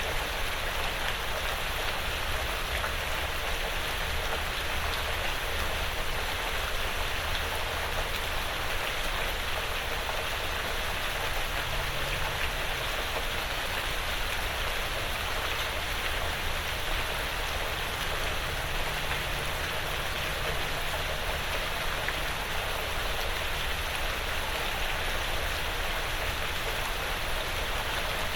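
Steady, gentle rain falling on a porch roof and the surrounding woods, an even patter with no distinct drips standing out.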